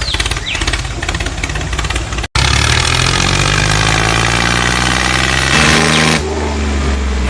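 Engine running, with a fast rattle at first. About two seconds in it cuts out for a moment, then comes back as a steady, loud engine drone whose pitch shifts slightly.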